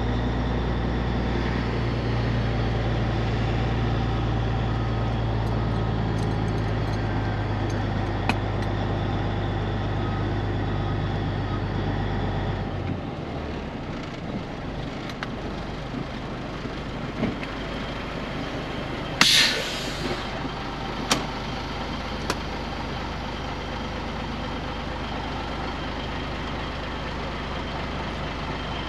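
Cabover semi truck's diesel engine running steadily from the cab, dropping to a quieter idle a little before halfway as the truck slows. About two-thirds in comes a short hiss of air from the air brakes, with a few sharp clicks around it.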